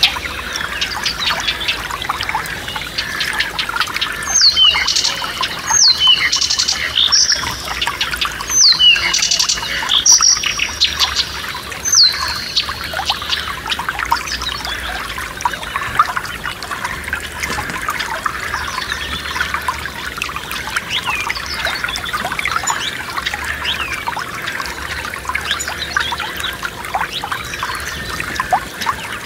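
Forest stream trickling steadily, with wild birds singing over it. A run of loud, high whistled notes that fall in pitch comes from about four to twelve seconds in; fainter calls follow.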